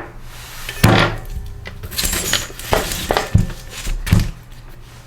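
Metal tools and engine parts knocked and set down on a workbench: five or six separate clanks and clinks, the loudest about a second in.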